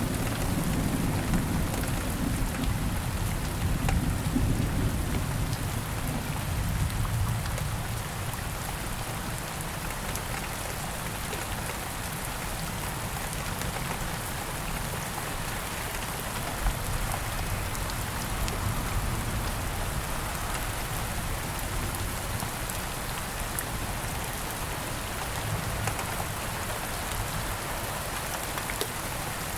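Steady rain falling and pattering on surfaces in a wood, with the low rumble of distant thunder dying away over the first several seconds.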